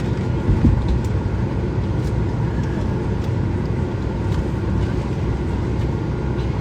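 Steady low hum of an airliner cabin during boarding, the aircraft's air-conditioning and systems running, with a brief low bump about half a second in.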